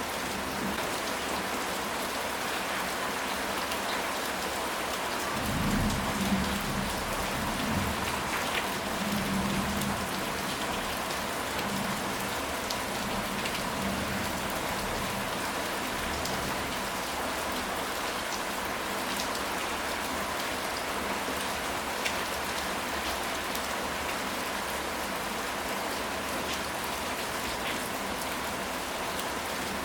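Steady rain falling, with a low rumble of thunder swelling about six seconds in and fading out over the next several seconds.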